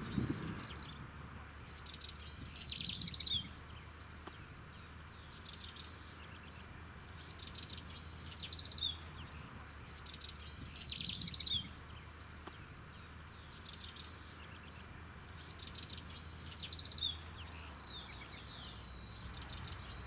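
Wild bird singing outdoors, its short bright song phrases coming every few seconds, with a steady low hum underneath.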